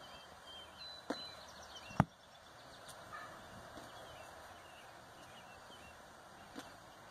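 Faint bird chirps over quiet outdoor background hiss. A sharp knock comes about two seconds in, with a fainter click about a second in.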